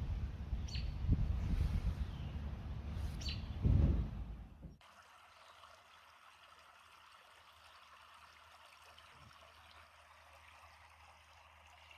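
Low rumbling outdoor noise with two short, falling bird chirps. It cuts off abruptly about five seconds in, leaving only a faint steady hiss.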